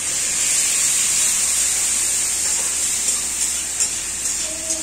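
Onion, green chilli and tomato frying in oil in a steel kadhai, a steady sizzling hiss, with a few light scrapes of the spatula as it is stirred.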